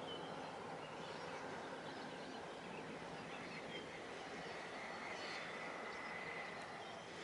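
Steady outdoor background noise with a few faint, short high chirps, and a faint steady high tone midway through.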